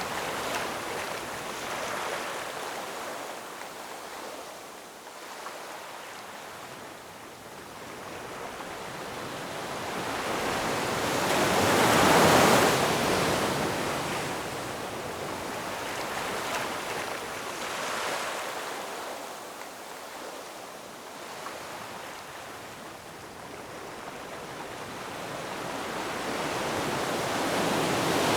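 Ocean waves breaking and washing on a shore, a steady hiss that swells with each wave: one big wave crests about 12 seconds in, smaller ones follow, and another builds near the end.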